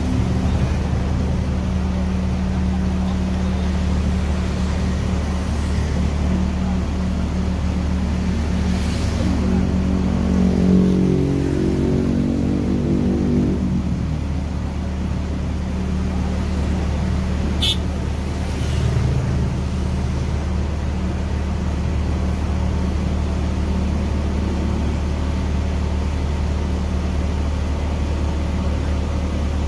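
Fire engine's motor running steadily under way, with road noise. About ten seconds in, a passing vehicle's pitched engine sound swells and fades, and a short sharp click comes near the middle.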